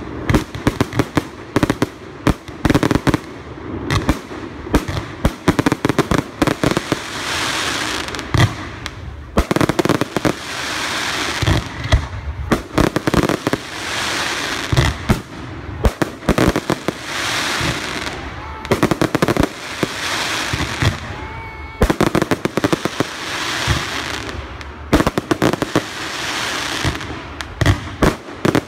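Fireworks display: rapid, overlapping bangs of shells bursting, with long stretches of crackling from crackling stars between them. A brief whistle sounds about twenty seconds in.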